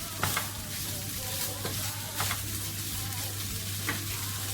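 Cooked rice sizzling as it fries in oil in a frying pan, a steady hiss, with a utensil clicking against the pan four times as it is stirred.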